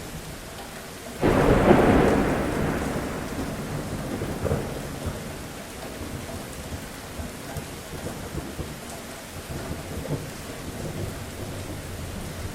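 Steady rain falling, with a clap of thunder breaking suddenly about a second in and rolling off into a fading rumble over the next few seconds.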